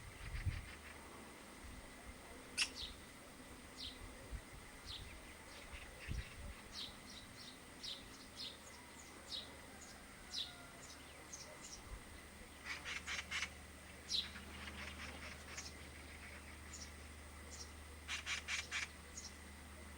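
Birds calling: short high chirps repeated throughout, and two bursts of rapid rattling chatter, about thirteen seconds in and near the end, typical of Eurasian magpies.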